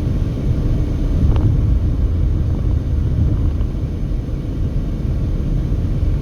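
Steady low rumble of a car's road and engine noise while driving at speed.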